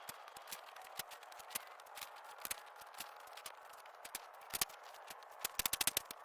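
Flathead shovel working dirt: scattered sharp strikes and scrapes, a louder one past the middle and a quick run of strikes near the end.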